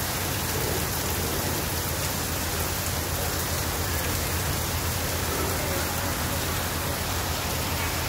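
Heavy rain falling steadily on wet pavement, heard from under a covered walkway.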